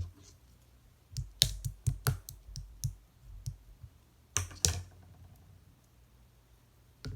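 Clear slime being squeezed and pressed by hand, giving a run of sharp sticky clicks and pops about a second in, then two louder pops a little past halfway.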